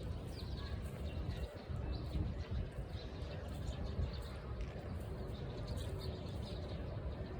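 Birds chirping in short, high notes scattered throughout, over a steady low rumble.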